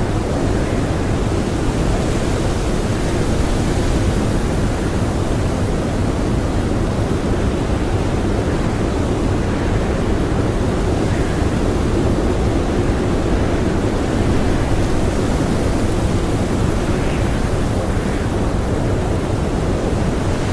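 Strong blizzard wind blowing steadily: a dense, unbroken rushing noise, heaviest in the low range, with no gusts or breaks.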